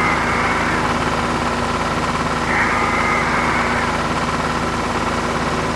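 An engine idling steadily, with a brief higher whine near the start and again about two and a half seconds in.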